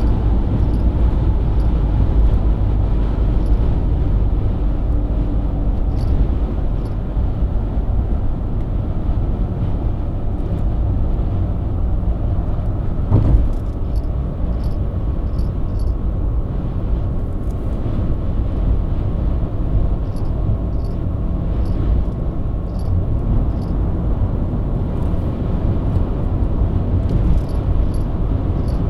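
BMW E90 323i's inline-six engine running at a steady highway cruise, heard with tyre and road rumble. A single short thump comes about halfway through.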